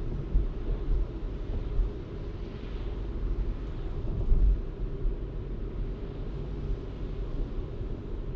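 Steady low rumble of a car being driven: engine and tyre noise, with a brief louder swell about four seconds in.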